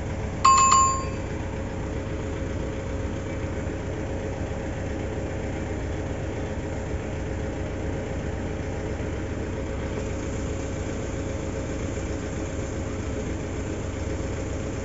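Mitsubishi Montero common-rail diesel engine idling steadily, misfiring according to the mechanic. A short electronic beep sounds about half a second in.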